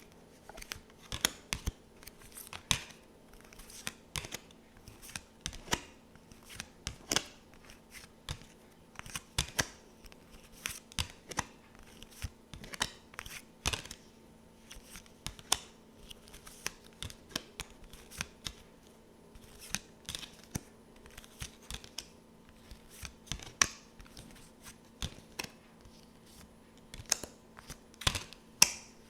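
Tarot cards handled close to the microphone: a string of crisp clicks and snaps, one to three a second at irregular intervals.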